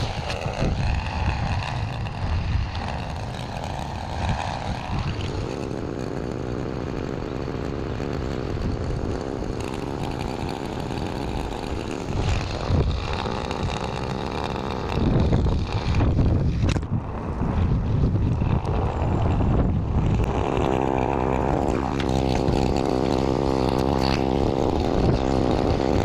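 Small gas engine of a handheld lawn tool running, its speed rising and falling, then holding steady near the end.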